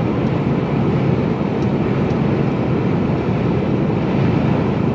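Steady engine and road noise of a Mercedes-Benz Actros container lorry on the move, heard inside its cab, a low even rumble.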